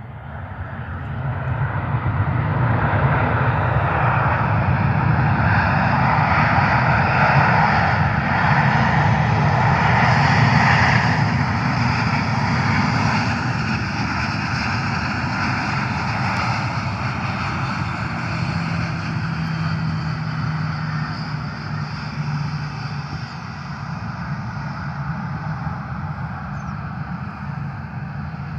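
Fixed-wing aircraft's engines passing overhead: the noise swells over the first couple of seconds, is loudest near the middle, and slowly fades away, with a faint high whine running through it.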